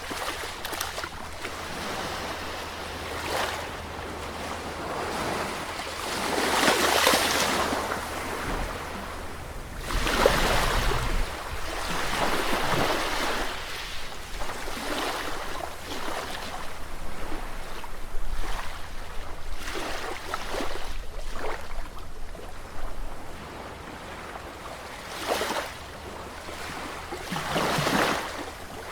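Sea waves washing in and drawing back in irregular swells of rushing noise, the biggest about seven and ten seconds in and smaller ones near the end.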